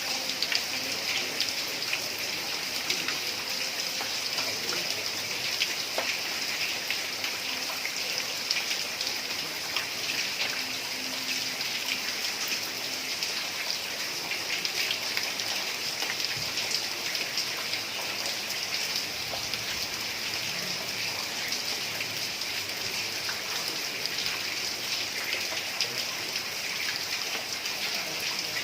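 Heavy rain falling steadily on a tile roof, a dense mass of drop hits with no break.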